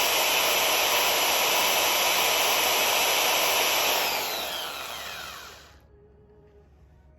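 Ryobi CS-2500 electric chainsaw running steadily, then switched off about four seconds in: the motor and chain wind down with a falling whine and stop shortly before six seconds.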